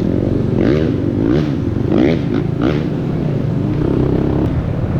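Dirt bike engine on a trail ride, revved up and let fall back four times in quick succession over a steady low engine drone, then holding a steadier note.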